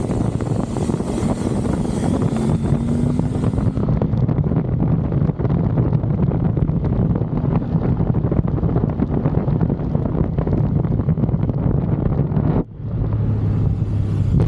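Kove 800X Pro motorcycle's parallel-twin engine running under way, with wind rushing over the microphone. About twelve and a half seconds in the sound briefly drops, then comes back on a lower, steadier note.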